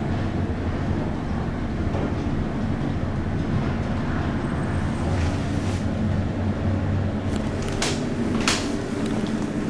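Modernised Otis lift car in motion: a steady low running hum inside the car, with two sharp clicks about eight seconds in.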